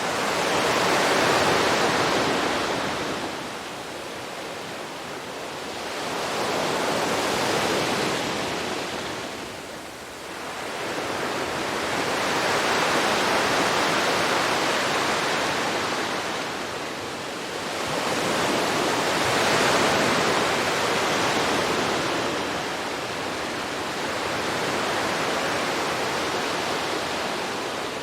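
Gentle sea waves washing onto a beach, the surf swelling and ebbing in slow surges about every five to six seconds.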